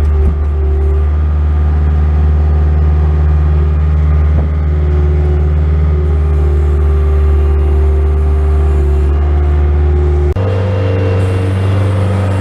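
Bobcat S185 skid steer's diesel engine running steadily under load while plowing snow, with a loud, even drone. About ten seconds in, the engine note changes abruptly.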